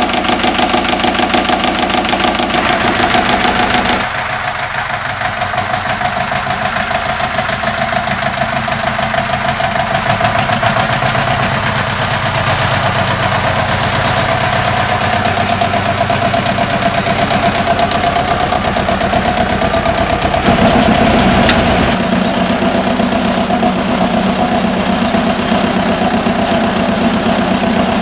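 The 1951 Güldner AF 20 tractor's diesel engine running steadily with an even knock, still cold after a hard start at −12 °C. Its tone changes about four seconds in and again after about twenty seconds.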